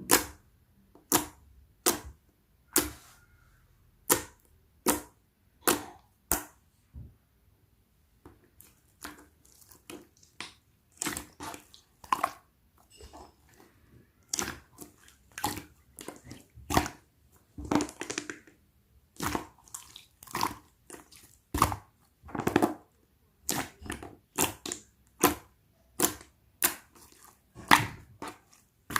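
Jiggly slime being pressed and poked by hand: a long run of sharp, irregular pops and clicks, roughly one or two a second, some with a short wet squelch after them.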